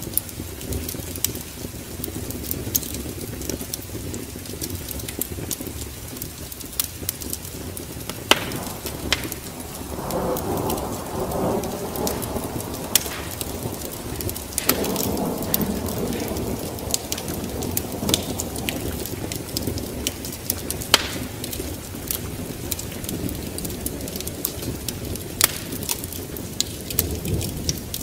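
Wood fire crackling with scattered sharp pops over a steady rain-and-wind ambience. The rushing noise swells louder twice, about ten and fifteen seconds in.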